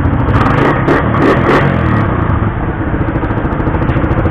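Motorcycle engine running steadily at idle, with a few sharp metallic clicks and clatter in the first couple of seconds.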